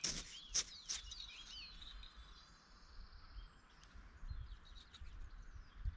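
Small birds chirping: a quick run of gliding high calls in the first second and a half, then fainter song. A few sharp clicks in the first second.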